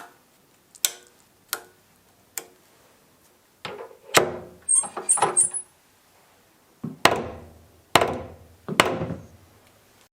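A series of sharp knocks: four light taps, then a cluster of heavier knocks with a few short high squeaks, and three hard knocks near the end, each ringing briefly.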